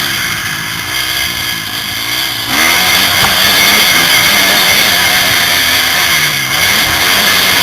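Motocross bike engine, heard from a helmet camera, revving up and down as the throttle is worked. It gets louder about two and a half seconds in.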